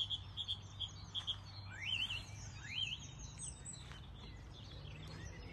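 Wild birds singing in the countryside: a quick run of short repeated high chirps, then two rising whistled notes about two and three seconds in, with fainter calls from other birds. A steady low rumble sits beneath.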